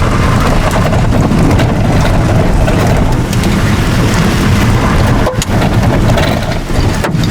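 Heavy rain and wind hitting a moving vehicle, over a steady engine and road rumble. The noise briefly dips twice near the end.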